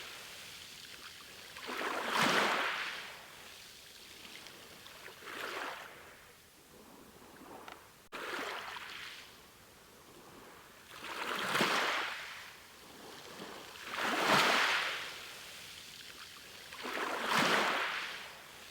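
Ocean waves washing onto the shore, each surge swelling and ebbing about every three seconds. The level jumps abruptly about eight seconds in.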